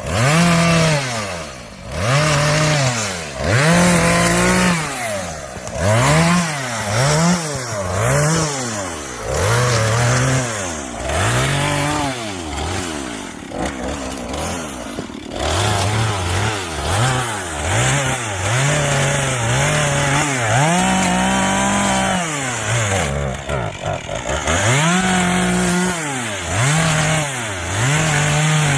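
Chainsaw engine revved up and down over and over, about once every second or so, as it makes short cuts into wood. There is a steadier, lower-pitched stretch about halfway through.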